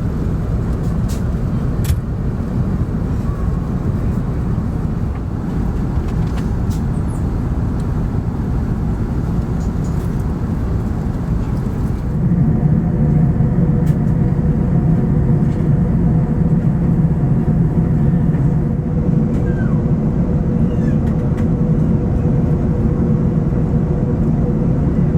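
Steady low rumble of an Airbus A380 airliner's engines and airflow. About halfway through it gets slightly louder, with a faint steady hum added.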